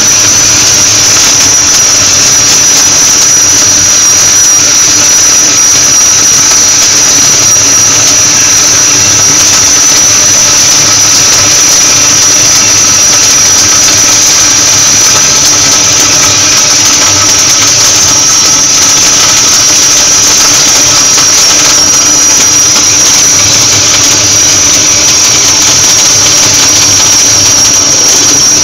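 Gas-shielded flux-cored arc welding: a long continuous weld, the arc crackling and hissing steadily with a high, steady whine over it.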